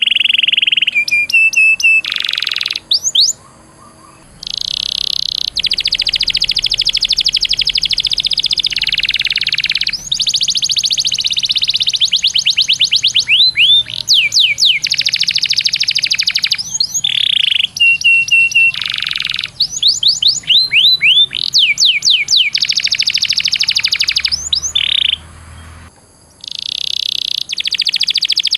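A songbird singing a continuous masteran-style song: long, very fast rolling trills alternating with series of sharp rising whistled notes ('tembakan'), in phrases broken by brief pauses.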